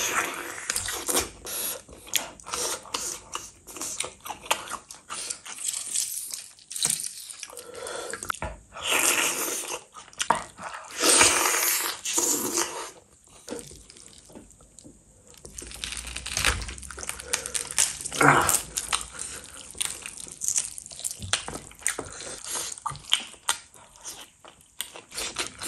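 Biting and chewing a gravy-coated mutton leg: wet mouth sounds with many short clicks and smacks, coming in uneven bursts.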